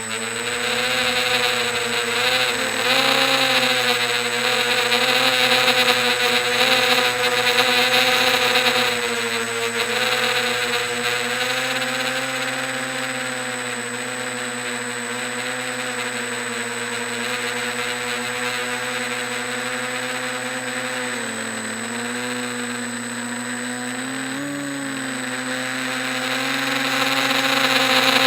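Quadcopter's four motors and propellers running in flight: a steady pitched drone whose pitch dips and recovers briefly a few times, growing louder near the end.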